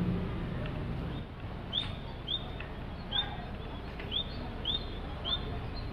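A bird giving a series of short, high chirps, one about every half second to a second, beginning about two seconds in, over a steady low background rumble.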